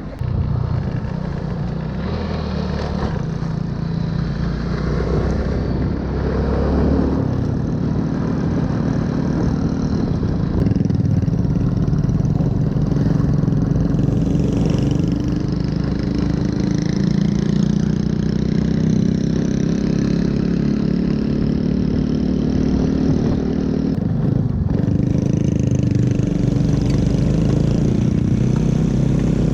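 Motorbike engine running under way, with wind and road noise; it gets louder over the first ten seconds or so as the bike speeds up, then holds steady.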